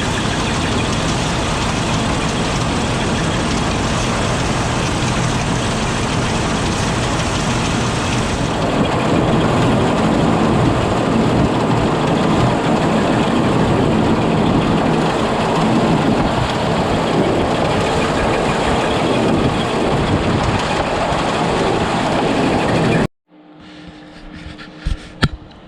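Tractor-driven chopper box running, its unloading chain carrying a newly welded flight around on a test run: a loud, steady mechanical running that gets a little louder about eight seconds in. It cuts off suddenly near the end, leaving a quieter low hum and a couple of clicks.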